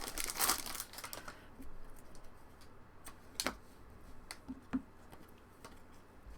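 A trading card pack's foil wrapper crinkles for about a second. Then come scattered light clicks and taps as the cards are handled and flipped through.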